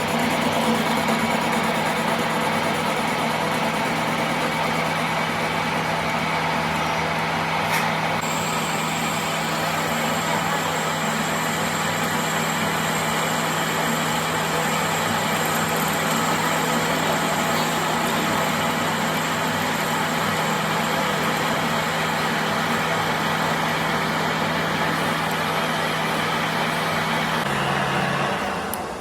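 A machine running steadily with a constant low hum, a high whine joining about a quarter of the way in; near the end the hum drops in pitch and the sound cuts off.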